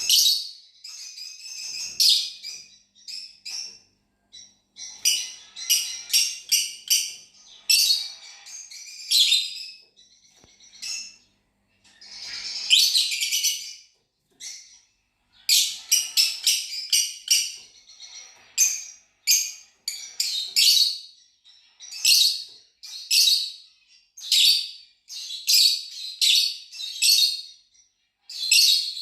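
Fischer's lovebirds chirping in rapid bursts of short, high chirps, clustered together with brief pauses between groups.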